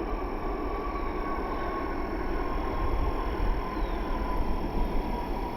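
Jet airliner's engines passing close by: a broad rumble with a thin whine that slowly falls in pitch.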